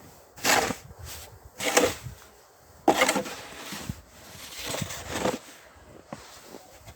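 Snow shovel scooping and scraping through deep snow: four rough strokes, each over a second apart.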